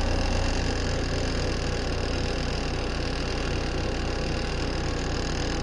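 Compact RV washing machine on its spin cycle: the motor and spinning drum give a steady hum with a low drone as the water is spun out of the soapy wash.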